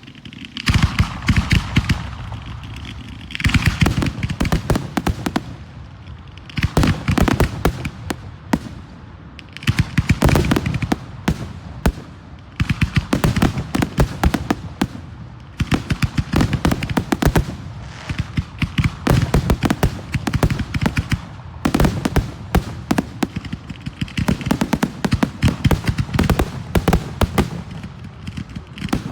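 Fireworks display: dense volleys of rapid crackling bangs that come in repeated waves with short lulls between them.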